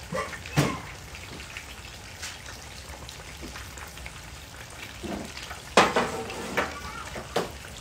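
Whole fish deep-frying in hot oil in a wok, a steady sizzle, with a few sharp knocks, the loudest about six seconds in.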